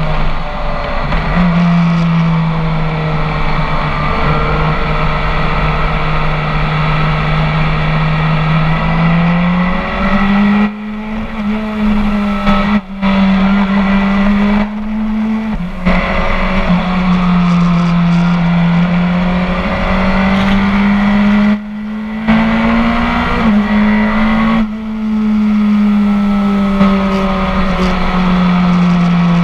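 Inline four-cylinder engine of a BMW K1300 S motorcycle with a full Akrapovič exhaust, heard from onboard while riding. The engine note rises and falls with the throttle, with several brief breaks a few seconds apart.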